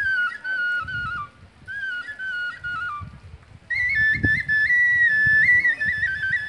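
Music: a solo flute-like melody in short phrases of stepping notes, moving higher and holding longer notes from about halfway in, over a low rumble.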